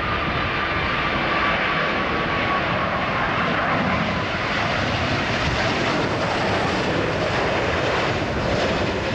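Jet engines of an Air New Zealand Boeing 777-200ER landing, a steady roar with a faint whine that fades in the first couple of seconds.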